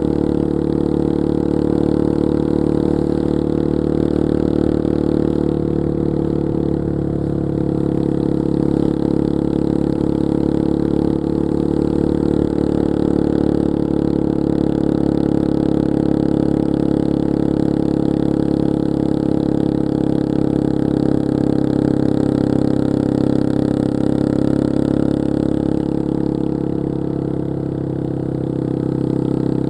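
Yamaha XT225 Serow's single-cylinder four-stroke engine running under way at a fairly steady pace. The engine note eases off and picks up gently a couple of times, with a short drop in level near the end.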